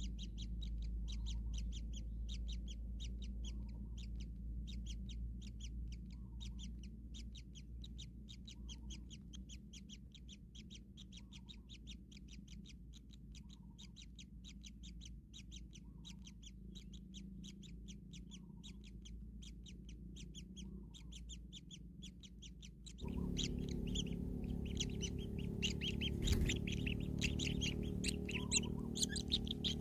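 Kingfisher chicks chirping in a fast, even series of short high calls, about three or four a second. About two-thirds of the way through, the sound changes abruptly to louder, denser chirping over a low hum.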